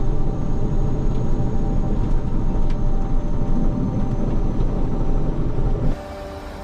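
Snowplow truck's engine running under load, a loud steady rumble heard from inside the cab. Near the end it cuts off abruptly to a quieter steady hum.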